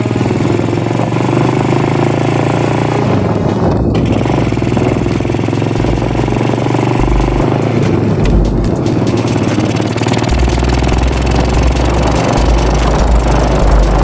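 Modified Vader 125 motorcycle's small single-cylinder engine running, holding a fairly steady pitch with only small changes, with patches of deep low rumble coming and going in the second half.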